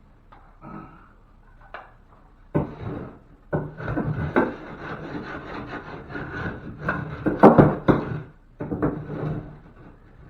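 Scraping and rubbing against wood, broken by several sharp knocks, for about six seconds in the middle; the loudest knocks come near the end.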